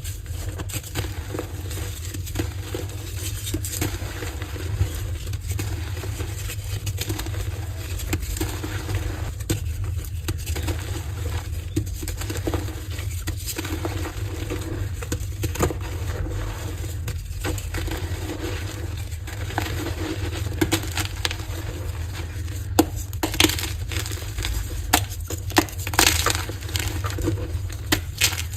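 Heart-shaped gym chalk blocks being crushed and crumbled in a continuous run of soft crunches. Sharper, louder cracks come in the last few seconds. A steady low hum runs underneath.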